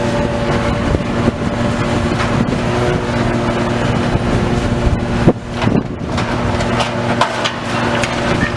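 Heavy diesel demolition machinery running steadily, with scattered knocks and crunches of material being broken. There is a sharp crack about five seconds in.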